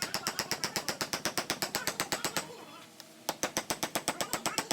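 Rapid, even tapping on a wood-carving chisel, about eight sharp strikes a second, with a short pause about two and a half seconds in.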